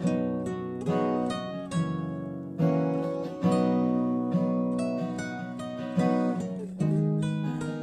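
Acoustic guitar strumming chords, with a strong stroke a little more often than once a second and each chord ringing and fading before the next; no voice.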